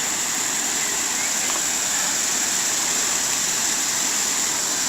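Creek water rushing steadily over the stream bed, an even hiss with no breaks.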